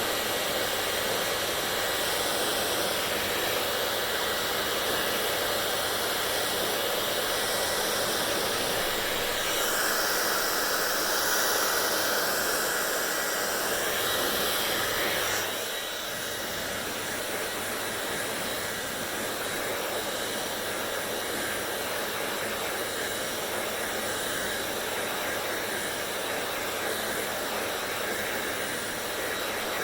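Hair dryer running with a steady blowing whoosh; the sound turns brighter about ten seconds in, then drops a little quieter about fifteen seconds in and holds steady.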